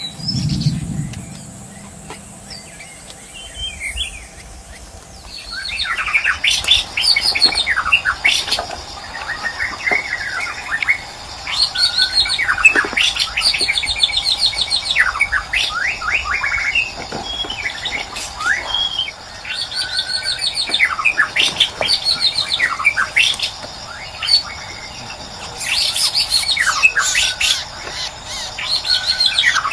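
White-rumped shama (murai batu) singing in bouts of quick, varied whistled phrases, beginning about five seconds in and broken by short pauses. A brief low thump sounds right at the start.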